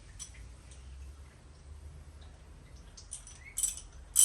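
Metal hand tools clicking and clinking against the engine near the end, with a brief squeak just before the loudest clink; otherwise only a low background hum.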